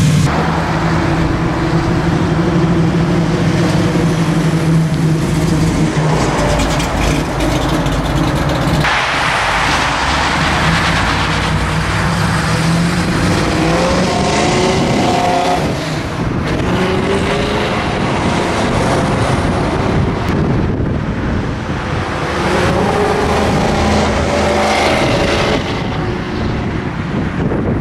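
1968 Chevrolet Camaro's engine running at a steady idle; about nine seconds in the sound changes to the car out on the road, its engine note rising as it accelerates past, with a second rise near the end.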